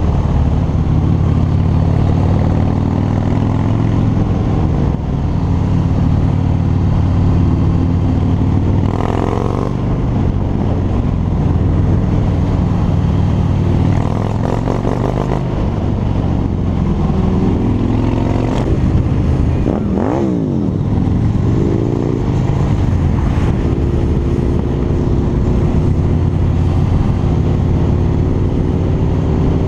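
Harley-Davidson V-twin motorcycle engine running under way. Its pitch drops and rises several times with throttle and gear changes, with a quick dip and climb about two-thirds of the way through.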